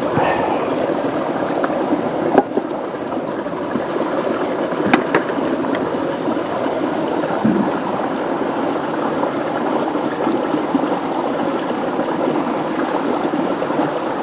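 Steady rushing water, with a thin, steady high-pitched tone above it and a few faint clicks.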